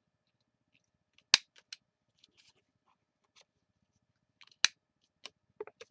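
Sharp clicks and light taps from paper-crafting tools and paper being handled on a work surface, with two loud clicks about a second in and about three seconds later.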